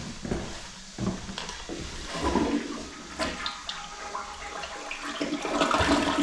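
Toilet being flushed, water rushing through the bowl, with a few sharp clicks along the way.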